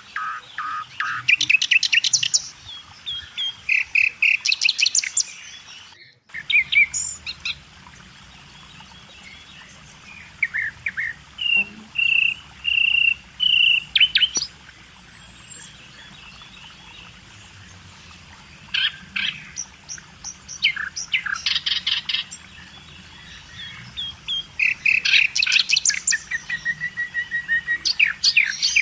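Several small birds chirping and singing, with quick repeated chirps and high, thin trills, and a brief break in the sound about six seconds in.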